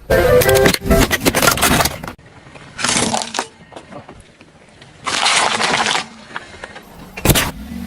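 Brittle objects being crushed under a car's tyre, crunching and cracking in bursts: a long crunch through the first two seconds, shorter ones about three and five seconds in, and a sharp crack near the end.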